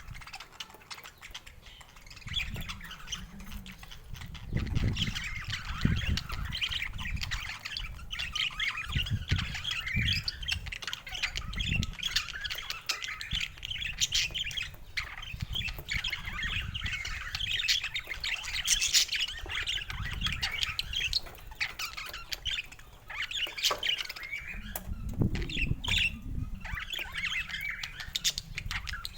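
Budgerigar chatter: continuous rapid warbling and chirping with sharper squawks mixed in. Soft low thumps come now and then.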